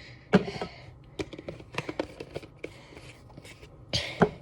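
Hands working sticky homemade slime, giving a scatter of small clicks and pops, with a louder squelch about half a second in.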